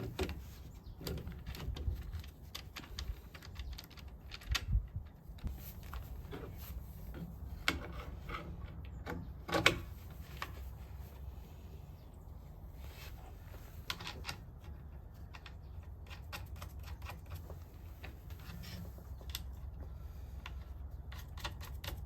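Scattered light clicks and knocks, as of objects being handled, over a steady low hum; the loudest knock comes just under ten seconds in.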